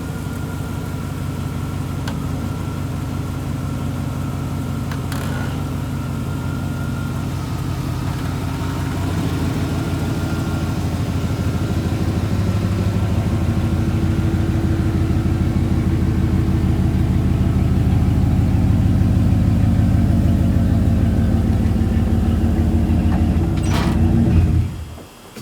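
Chevrolet Z71 pickup's engine running under load while dragging a small building on a chain, its exhaust rumble growing steadily louder through the middle and then cutting off suddenly near the end.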